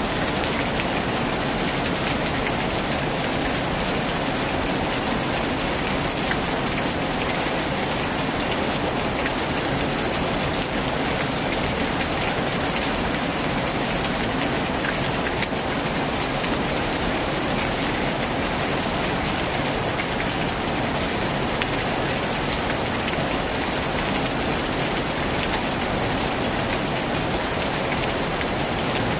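Heavy rain pouring steadily: a dense, even hiss with the fine patter of single drops, and no thunder.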